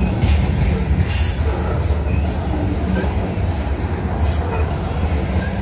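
Norfolk Southern freight train cars rolling past with a steady heavy rumble of wheels on rail, broken a few times by brief high squeals from the wheels.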